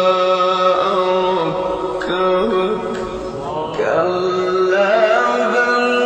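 A male reciter chanting the Quran in melodic tajweed style, holding long notes with ornamented turns in pitch, with a short lull near the middle.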